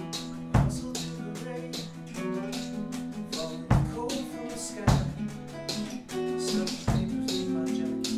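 A band playing a song together: guitar chords ringing over a drum kit, with steady cymbal ticks and a few heavy kick-drum hits.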